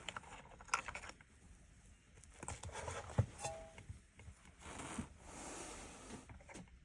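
Light clicks, taps and rustling of small plastic switch buttons and parts being handled and cleaned by hand, with one sharper knock about three seconds in.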